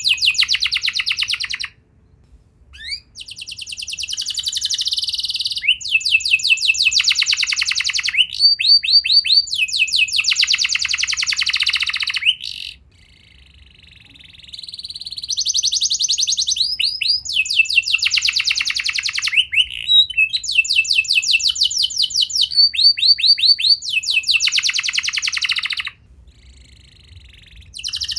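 Domestic canary singing: long songs made of fast trills of rapidly repeated notes, with short pauses about two seconds in, near the middle and near the end.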